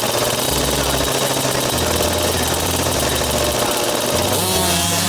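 A 50cc two-stroke dirt bike engine running at high revs, with a low bass line from a music track underneath.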